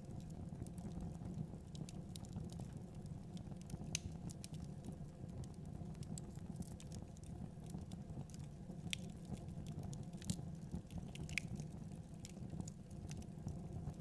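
Fire in a fireplace crackling: irregular sharp pops and snaps over a low steady rumble of the flames, with a few louder pops about four seconds in and around ten to eleven seconds.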